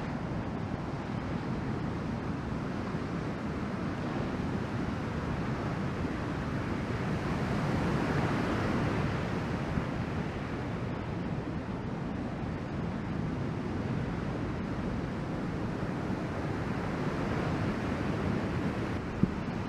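Ocean surf from a typhoon swell breaking and washing in. It is a continuous rush that swells louder around eight seconds in.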